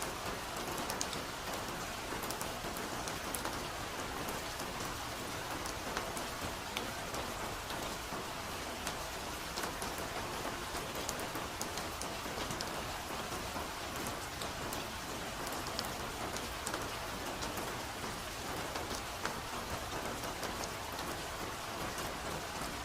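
Soft, steady rain: an even hiss dotted with many small, crisp drop ticks.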